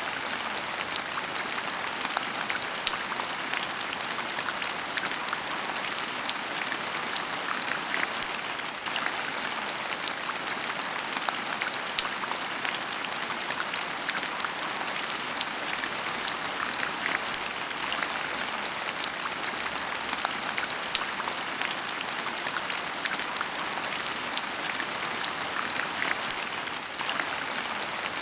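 Heavy rain falling steadily: a dense, even hiss scattered with many sharp, separate drop hits.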